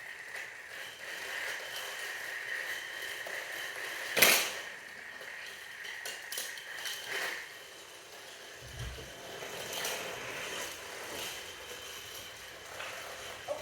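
Battery-powered Thomas & Friends toy trains running on a plastic track: a steady high whine from their small geared motors, with scattered clicks and one sharp clack about four seconds in.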